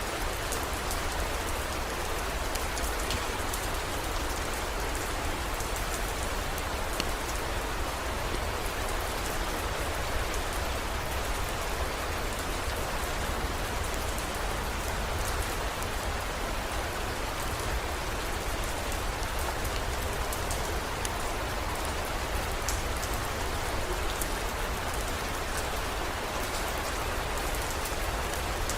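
Heavy rain falling steadily, with many fine ticks of drops striking a surface over a continuous hiss, and a steady low rumble beneath it.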